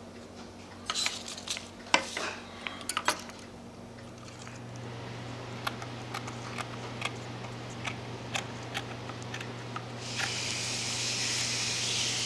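Small parts and paper handled on a workbench, with scattered light clicks and taps. About four seconds in, a steady low hum starts, and a loud hiss joins it near the end.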